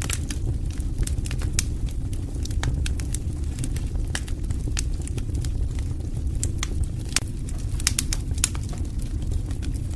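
Wood fire burning in a fireplace: a steady low rumble of flame under irregular sharp crackles and pops, with a quick cluster of pops about eight seconds in.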